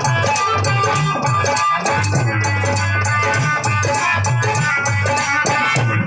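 Harmonium and dhol playing together: the harmonium holds sustained reedy chords while the dhol beats a steady rhythm of deep strokes, with a fast rattling percussion over the top.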